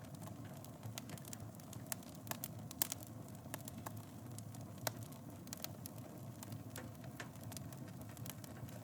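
Wood fire burning in a fireplace: a steady low rush of flames with irregular crackles and pops, a couple of sharper snaps about three and five seconds in.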